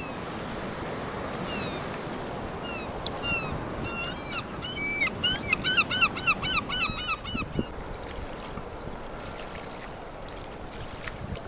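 Birds calling over the water: a few scattered short calls, then a quick run of about three or four calls a second that stops about two-thirds of the way through. Underneath is a steady wash of water and wind around the kayak.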